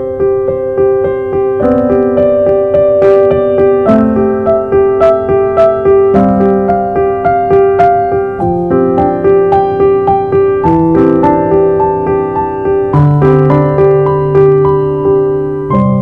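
Piano playing an instrumental tune: steadily repeated chord notes over a bass line that moves to a new chord about every two seconds.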